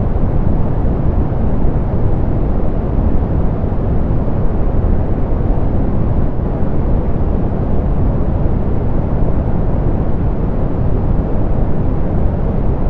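Steady, softened pink noise: an even, unchanging hiss weighted toward the low end, with its highs rolled off.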